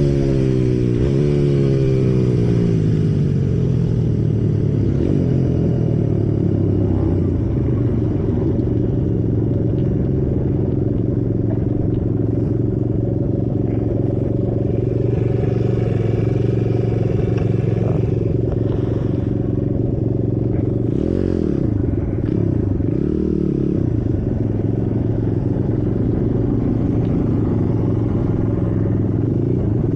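Symoto 140cc pit bike's single-cylinder four-stroke engine heard from the onboard camera while riding on track. The revs drop in the first couple of seconds, then run fairly steady with a few brief dips in pitch later on.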